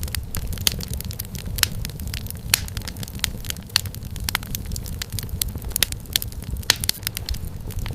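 Wood fire crackling: dense, irregular sharp snaps and pops over a low, steady rumble of the burning fire.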